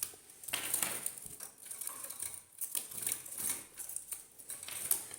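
Light clicking and rustling from handling a small plastic eye dropper and syringe: a scatter of small irregular clicks.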